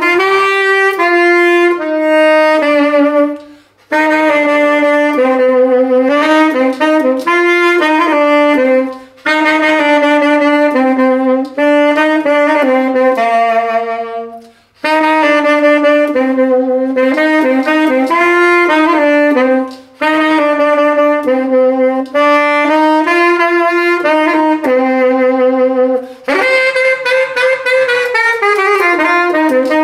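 Saxophone playing a melody in phrases, with short breaks between phrases about every five seconds; near the end the pitch slides downward.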